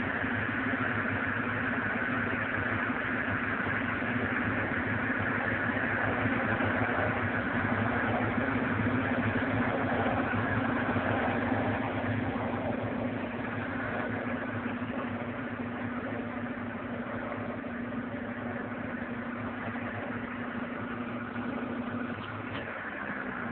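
Small 5 kg top-loading washing machine running, a steady motor hum over a noisy churning. The hum stops shortly before the end.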